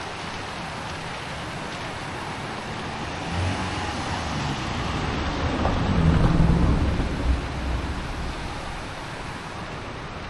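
Steady rushing noise of floodwater in a wadi. A deep rumble swells in the middle, loudest a little past halfway, then fades.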